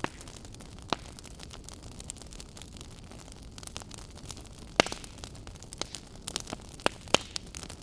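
Campfire burning, a steady low rush with sharp crackles and pops, one about a second in and a busier run of louder pops in the second half.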